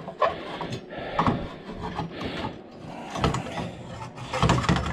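A piece of scrap metal being set on a scale and shifted around, making irregular clunks and rattles about once a second as it will not sit steady.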